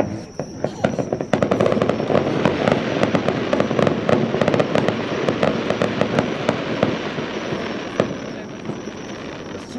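Fireworks finale barrage: a bang, then a dense run of rapid crackling bursts and bangs that carries on and thins slightly near the end.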